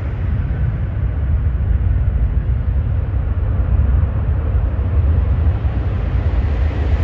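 Low, steady rumble of a jet airliner at the airport, with no distinct pitch or sudden events.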